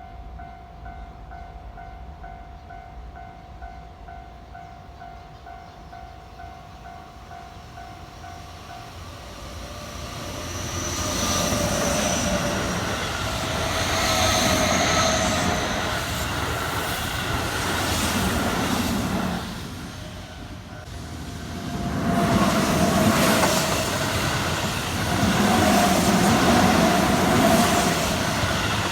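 Keihan electric trains passing on the track: wheels rumbling and squealing, one train from about ten seconds in and another after a brief lull around twenty seconds. For the first nine seconds, before the trains arrive, only a steady pulsing signal tone is heard.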